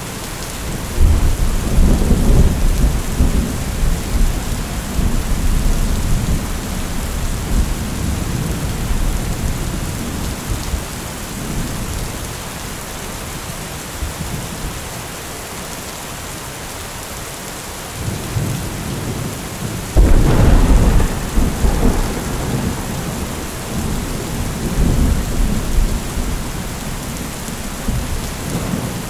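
Heavy rain falling steadily, with two peals of thunder. The first rumbles in about a second in and rolls on for several seconds. The second starts suddenly and loud about two-thirds of the way through, then rumbles away.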